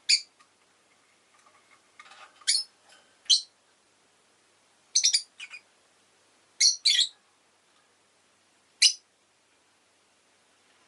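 Rosy-faced lovebird giving short, sharp, high chirps, singly and in quick pairs, about eight in all with pauses of one to two seconds between them.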